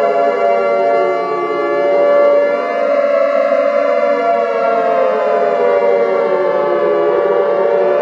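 Civil defense siren wailing loudly and continuously, its pitch sliding slowly down and back up twice, alongside a steadier held tone.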